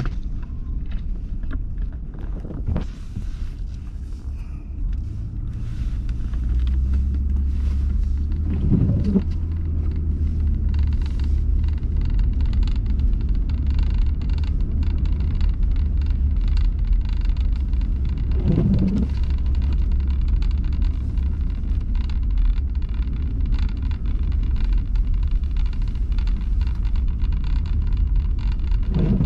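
Car driving on a snowy road, heard from inside the cabin: a steady low rumble of engine and road that gets louder about six seconds in. Three short sweeping sounds come about ten seconds apart.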